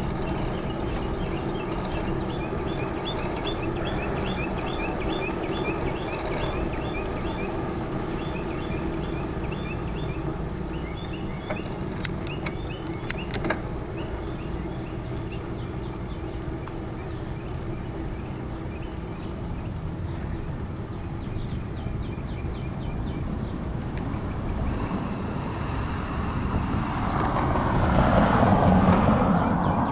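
Salsa Journeyman's 650b tyres rolling on pavement, a steady loud hum and road noise, with short repeated chirps over it in the first half and a few sharp clicks partway through. The noise swells louder near the end.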